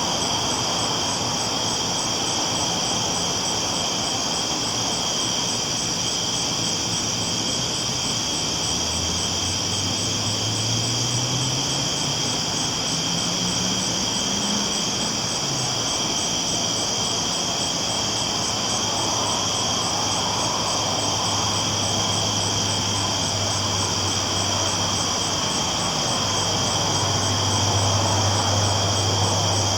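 Train rolling on the tracks, a steady rumble with a low engine tone that rises in pitch near the middle and then holds. A steady chorus of night insects runs over it.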